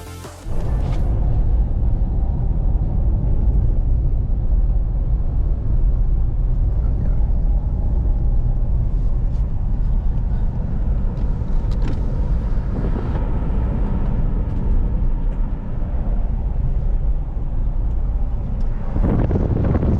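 Steady low rumble of a vehicle in motion, with no break or change in its course.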